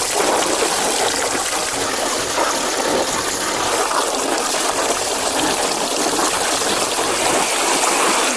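Water streaming steadily in a toy car wash as a toy dump truck is washed.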